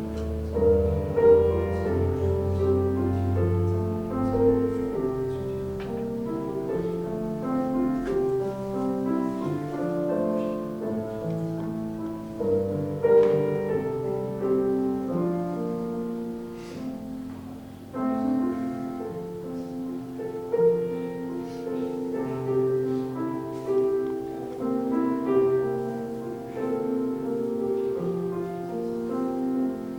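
Solo piano music playing, a slow series of sustained notes and chords.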